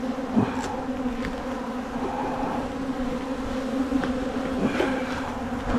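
Honeybees from an open hive buzzing in a steady drone, with a few small knocks and clicks.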